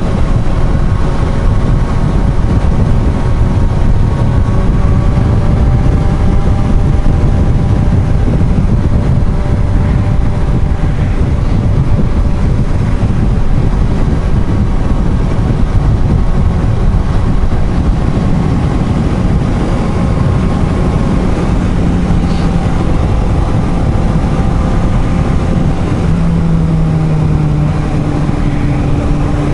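Motorcycle riding at steady speed: loud wind rush on the helmet microphone over the steady engine note of a Suzuki GSR750's inline-four. The engine note changes near the end.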